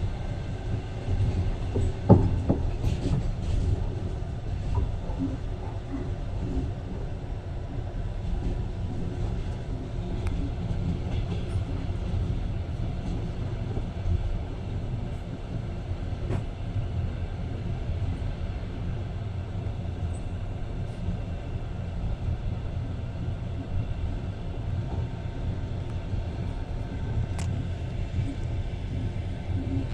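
Passenger train running along the track, heard from inside the carriage: a steady low rumble of wheels on rails, with one sharp knock about two seconds in.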